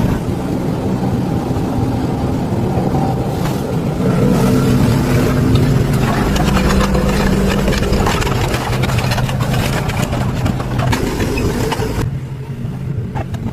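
An engine running steadily with a constant low hum and clatter; it eases off and thins out near the end.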